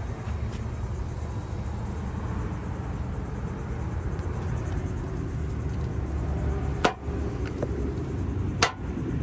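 Steady low background rumble, with two sharp clicks about two seconds apart near the end.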